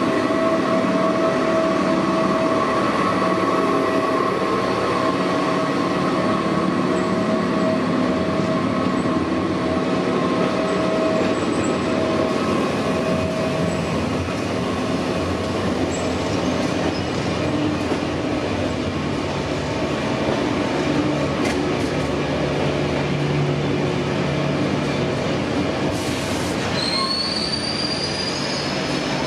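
SNCF BB 22200 electric locomotive hauling Corail coaches, a steady rolling hum with several held tones. A rising high wheel squeal starts a few seconds before the end.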